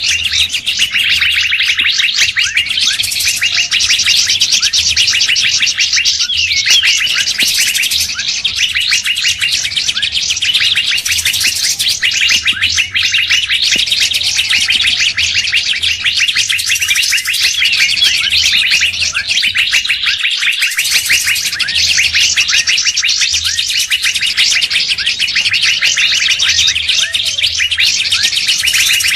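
Dense, unbroken chorus of many small birds chirping and twittering over one another, with rapid short notes and quick pitch sweeps. It is a bird-lure (pikat) recording that mixes songbird calls to draw wild birds in.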